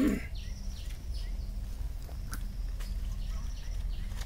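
A bird calling over and over in short falling chirps, about three a second, in runs that pause and resume, over a steady low rumble. At the very start there is a brief rustle of cashew branches and leaves as fruit is picked.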